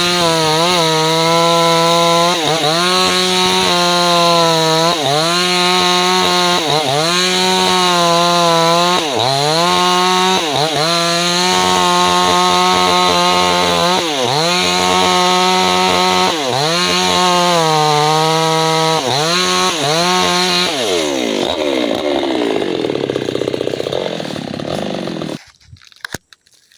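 Two-stroke chainsaw cutting into a tree trunk at full throttle, its pitch dipping briefly every second or two as the chain bogs down in the wood. About three-quarters of the way through the engine note sags and fades, then stops.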